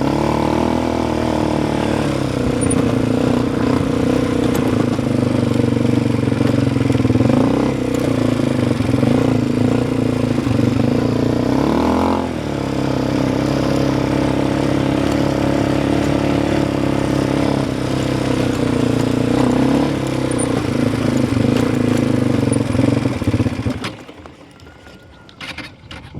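Quad bike engine running steadily, easing off briefly about halfway through, then cutting off near the end.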